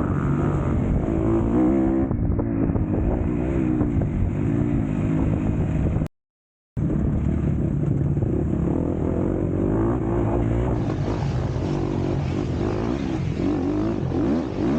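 MX2 motocross bike engine being ridden hard, its pitch repeatedly rising and falling with the throttle, with wind rush over it. The sound cuts out completely for about half a second some six seconds in.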